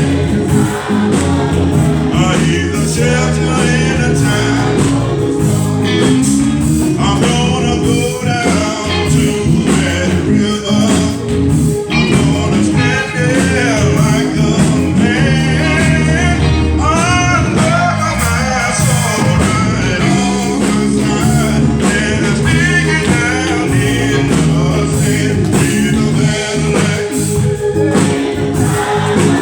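Live gospel praise-and-worship music: a church band with a steady beat backing singers.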